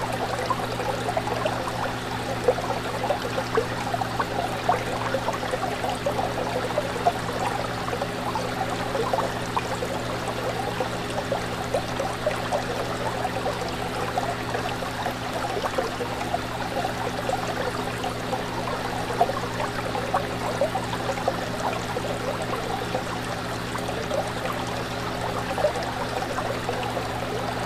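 Fish tank water trickling and splashing in a constant busy patter, over a steady low hum of the aquarium's pump.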